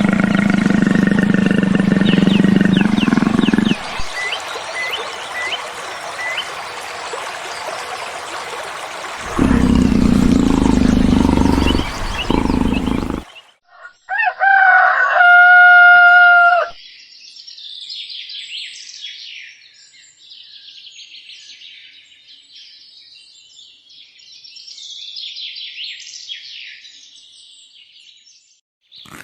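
Birds calling: a loud pitched call lasting about three seconds in the middle, followed by a stretch of fainter, high-pitched chirping.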